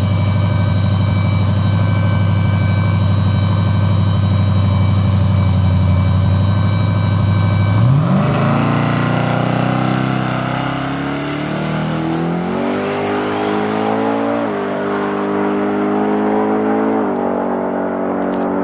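Turbocharged race truck engine held at a steady high note for about eight seconds, then accelerating: the pitch climbs and drops sharply twice near the end as it shifts up through the gears.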